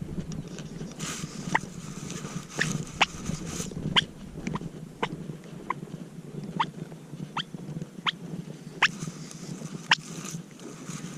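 Wild turkeys clucking: a run of about fifteen short, sharp notes at irregular intervals over a quiet woodland background.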